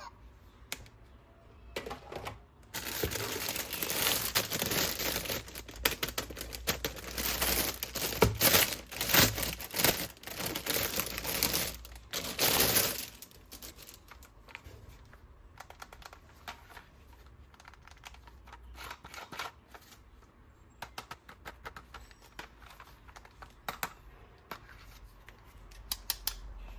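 Plastic toy packaging being torn open and crinkled for about ten seconds, followed by scattered small clicks and taps of plastic parts being handled.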